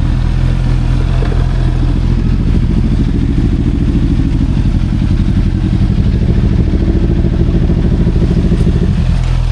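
Motorcycle engine running steadily close by, its note easing off slightly near the end.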